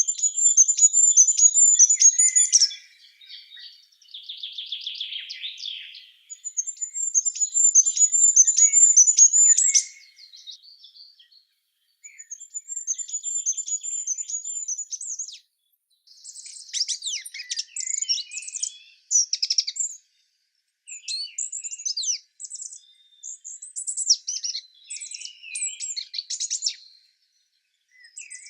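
Small songbirds singing: high, rapid trilled phrases a few seconds long, repeated with short pauses, then giving way to busier, more varied chattering song.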